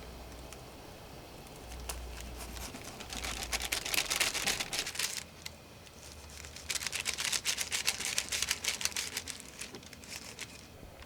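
Two bursts of dense, rapid crackling, each lasting a couple of seconds, with a short lull between them.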